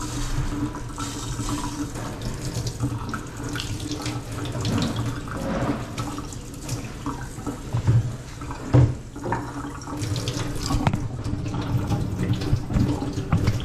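Kitchen faucet running into the sink, a steady stream of water splashing, with two brief thumps about eight and nine seconds in.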